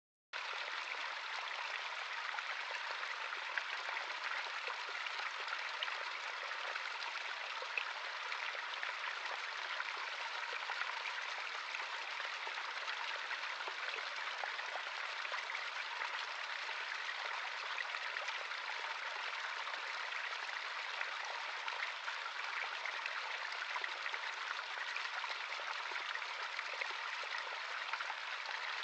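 Running water of a natural stream, a steady, even rush with faint droplet ticks in it. It drops out for a split second right at the start.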